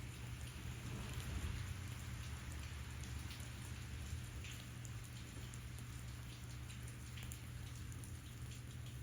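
Steady patter of falling drops, with many scattered light ticks over a low steady hum.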